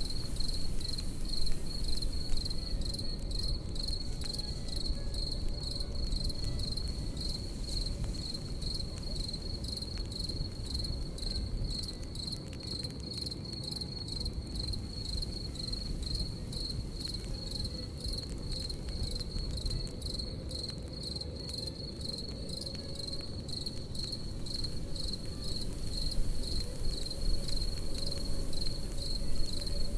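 Crickets chirping in a steady, fast-pulsing high-pitched trill over a crackling campfire, with a few louder pops near the start and near the end.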